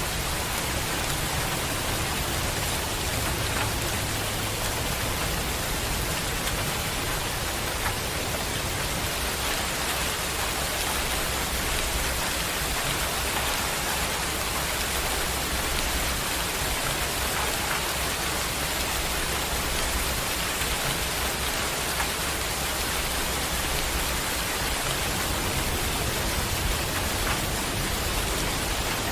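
Heavy rain falling steadily, a dense even hiss with faint drop patter.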